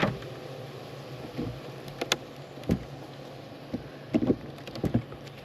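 Honeybees buzzing steadily in an opened hive, with several sharp knocks and clicks of wooden hive parts being handled as the hive is checked for honey stores.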